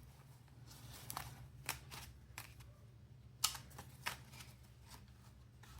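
Paper banknotes being handled: a series of short, crisp rustles and flicks as bills are sorted and counted, the sharpest about three and a half seconds in, over a faint steady low hum.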